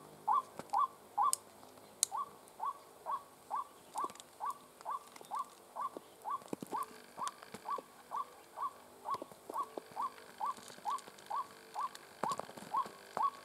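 White-breasted waterhen calling: a monotonous series of short, upward-sliding notes repeated about two to three times a second, with a brief pause about a second and a half in.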